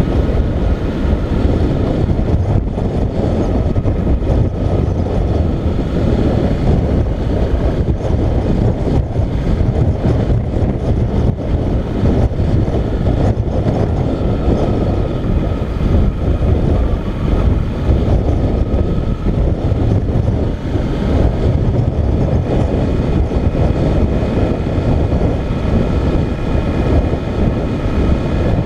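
Motorcycle riding at road speed: the engine runs steadily under a heavy rumble of wind and road noise, with a faint whine that rises and falls slowly.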